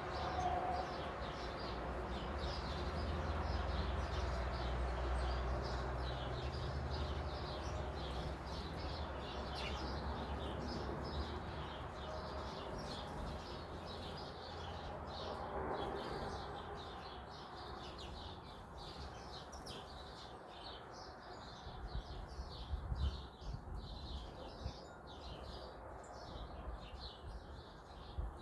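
Many small songbirds chirping rapidly and continuously, with a low rumble underneath that eases off after about eight seconds.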